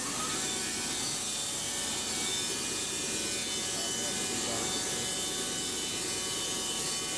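Wood-Mizer band sawmill running steadily with its blade turning, sawing through a pine log to cut a board.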